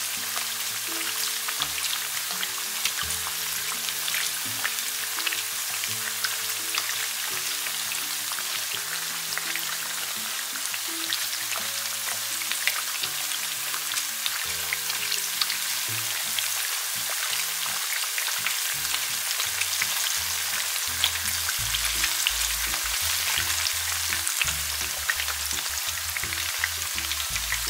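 Battered banana fritters frying in hot oil in a pan: a steady, dense sizzle full of small crackling pops.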